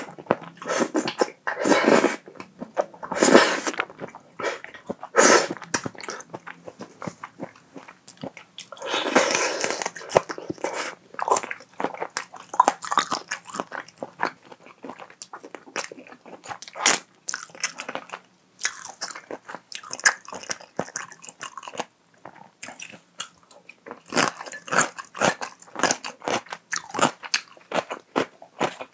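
Close-miked eating sounds: a person chewing and biting food, with crunchy bites and wet mouth clicks in irregular spells.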